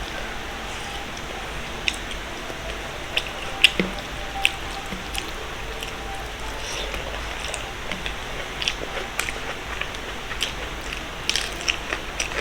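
A person chewing food close to the microphone, with scattered short wet mouth clicks and smacks, more frequent in the second half, over a steady hiss.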